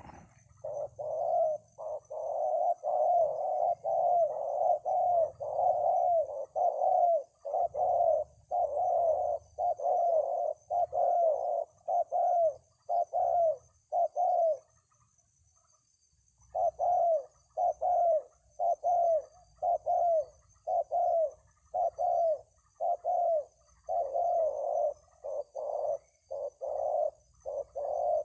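Spotted dove (tekukur) cooing: a long run of short, evenly spaced coos, with a pause of about two seconds just before the middle before the cooing resumes.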